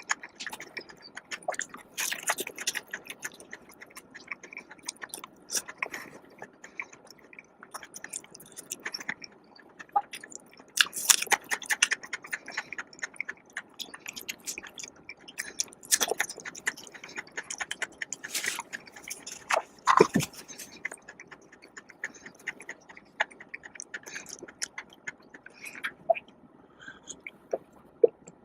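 Close-miked eating sounds: a person chewing and biting food, with irregular wet mouth clicks and short crunchy bursts, a few louder bites scattered through.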